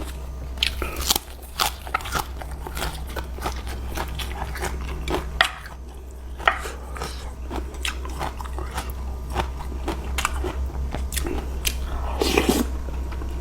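Close-miked chewing of food, with many short crisp crunches, wet smacks and clicks in an uneven stream.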